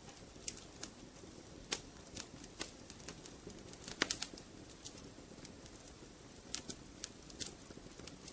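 Wood fire crackling in a fireplace: irregular sharp pops and snaps over a low steady rumble, with a quick cluster of louder pops about four seconds in.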